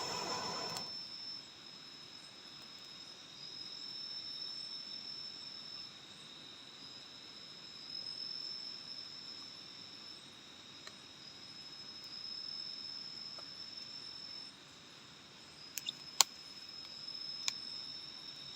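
Forest insects trilling steadily in a high, continuous chorus of two pitches, the upper one rising and falling in long phrases. A few sharp clicks near the end.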